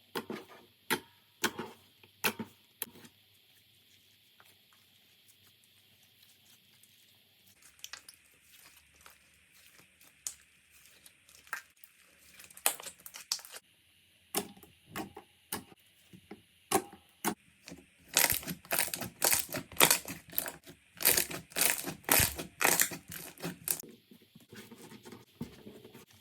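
Slime being squeezed and pressed by hand, making sharp crackling pops. A few loud pops come first, then after a quiet stretch scattered crackles, and a dense run of rapid crackling near the end.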